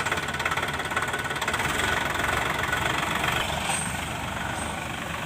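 Diesel tractor engine running steadily with an even, fast firing beat.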